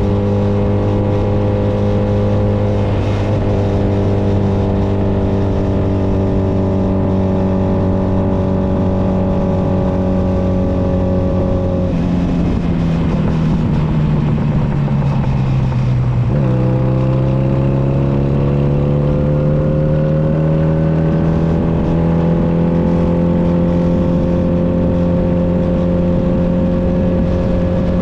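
Honda Nighthawk 250's air-cooled parallel-twin engine running under way. The engine note eases down for the first half, drops further for a few seconds past the middle, then climbs steadily as the bike accelerates.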